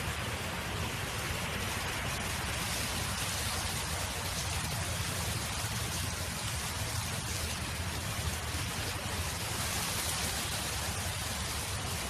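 Steady wind noise: a dense, even hiss with a low rumble underneath, unbroken throughout.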